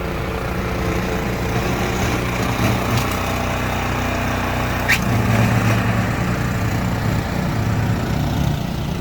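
A snowblower's small gas engine runs steadily, with one short high squeak about five seconds in.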